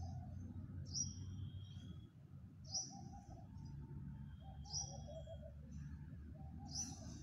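Birds calling: a short high call repeated about every two seconds, four times, with lower warbling notes between the calls, over a steady low rumble.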